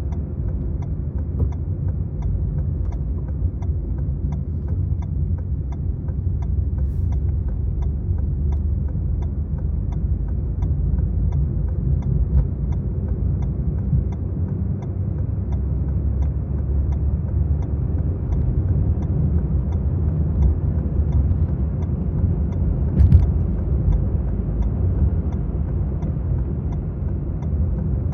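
Maruti Suzuki Swift car being driven: a steady low rumble of engine and road noise, with one short knock about three-quarters of the way through.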